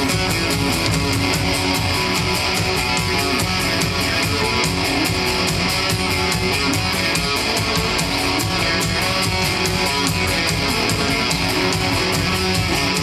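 Live rock band playing an instrumental passage, guitar strummed to the fore over bass and a steady drum beat.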